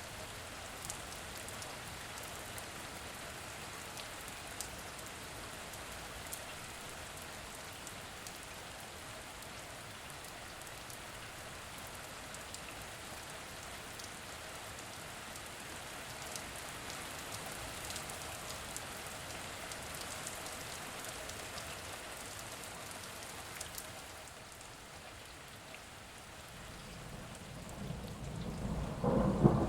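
Steady rain falling, with scattered individual drop ticks. Near the end a low rumble of thunder builds up and grows loud.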